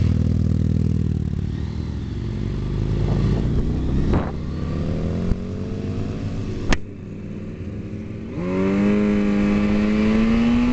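Motorcycle engine pulling away and accelerating through the gears, its pitch rising in several steps. A sharp click and a brief dip come near seven seconds in, and then the engine climbs steadily again.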